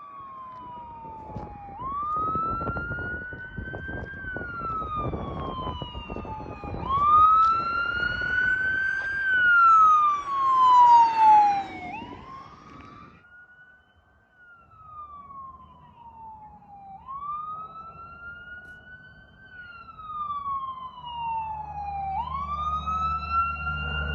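Emergency vehicle siren on a slow wail, rising and then falling in long cycles about five seconds apart, loudest near the middle as the vehicle passes with its road noise, then fading. A low rumble comes in near the end.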